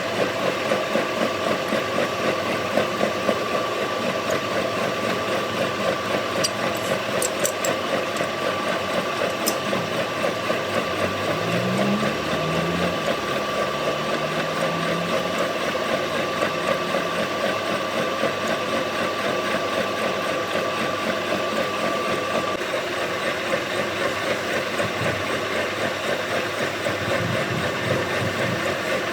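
Workshop machine tool running steadily with a regular pulsing beat and a high steady whine that stops about three quarters of the way through.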